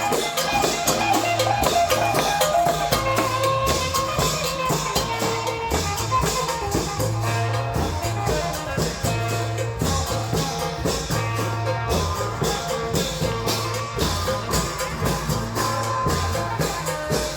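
Isan klong yao long-drum band playing: fast, even drum strokes with cymbals over a held melodic line and a pulsing bass.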